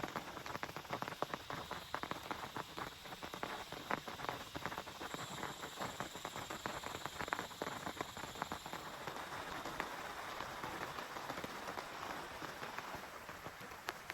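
Heavy rain falling on a tent: many close-spaced, irregular drop hits over a steady hiss.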